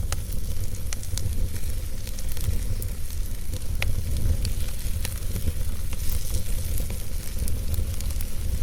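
Wood fire in a fireplace crackling, with frequent sharp pops and snaps over a steady hiss and a low rumble of flame.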